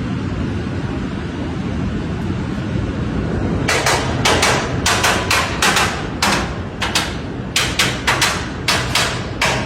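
Inspection hammer tapping metal parts of a bullet train, in quick sharp strikes often in pairs, starting about four seconds in over a low steady rumble. This is hammer testing (打鍵), checking the fittings for looseness.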